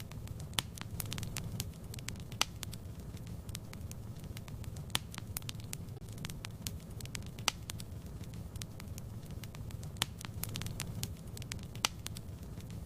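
Wood fire burning in a fireplace: a steady low rumble of flames with irregular crackling, and a sharper pop or snap every couple of seconds.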